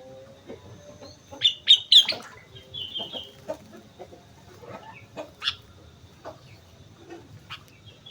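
Sooty-headed bulbul (kutilang) calling in short, quick chirped phrases, loudest about one and a half to two seconds in, with a softer phrase around three seconds. A few sharp clicks or taps are scattered through.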